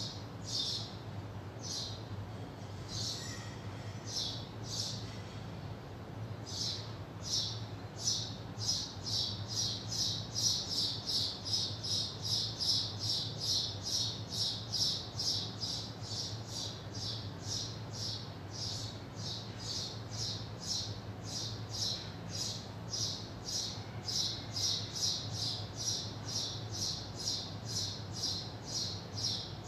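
A bird chirping over and over in short high notes, irregular for the first few seconds, then settling into a quick even series of about three chirps a second, over a steady low hum.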